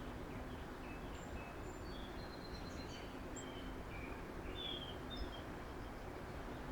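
Backyard birds giving short, scattered chirps and calls at several different pitches, faint over steady outdoor background noise with a low hum.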